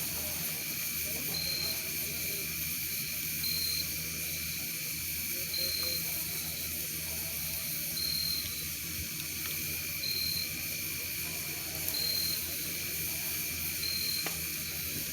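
Night insects calling: a steady high trill with a short high chirp repeating about every two seconds.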